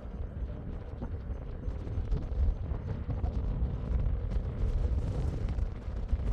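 F-22 Raptor's jet engines: a deep, rough, steady rumble.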